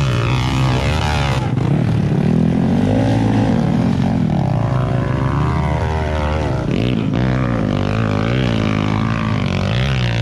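Dirt bike engine revving up and down over and over, its pitch rising and falling every second or two as the throttle is worked.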